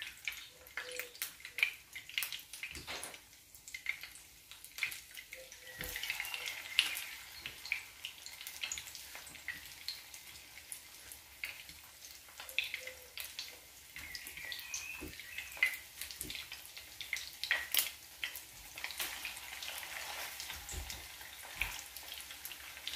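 Egg-dipped cabbage wedges frying in goose fat in a pan, a light sizzle with many small pops and crackles of spitting fat. The sizzling thickens about six seconds in.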